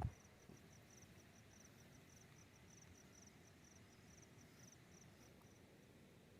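Faint cricket chirping in the night forest: short high chirps in quick groups, about three a second, fading out near the end. A single dull thump sounds right at the start.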